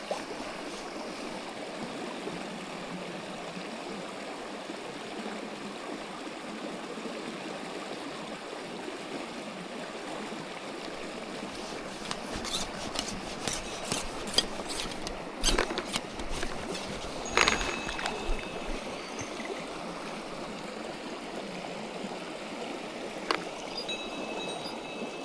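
Mountain stream flowing steadily. About halfway through comes a run of sharp clicks and knocks, the loudest two a couple of seconds apart, then one more knock near the end.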